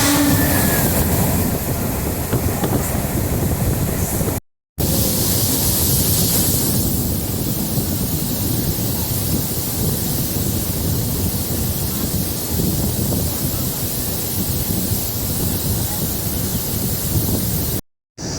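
Running noise of a DEMU (diesel multiple unit) passenger train heard from on board: a steady rumble of the train in motion mixed with rushing wind. It is broken by two short silent gaps, one near the middle and one near the end.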